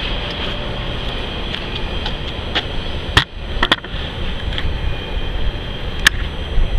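Freight train rolling away down the line: a steady rumble of steel wheels on rail with a steady high-pitched ring over it, broken by a few sharp clicks about halfway through and near the end.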